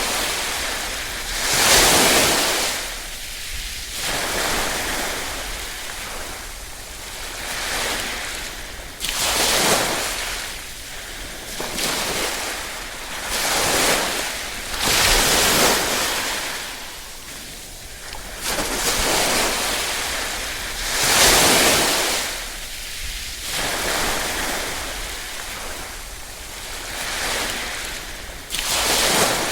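Small waves washing onto a shore, each breaking in a hiss that swells and fades every few seconds, with a few louder breakers among them.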